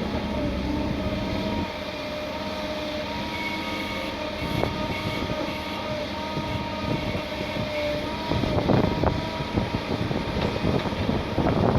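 Excavator diesel engines running steadily with a high whine over the engine note, and a few knocks. A rushing noise swells in short gusts in the last few seconds.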